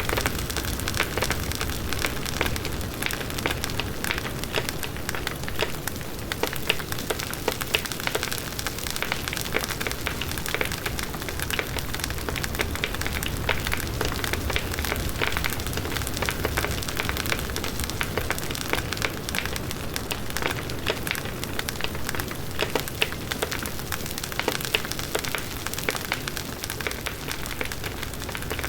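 Large wood bonfire burning: dense, continuous crackling and popping of burning wood over the steady rush of the flames.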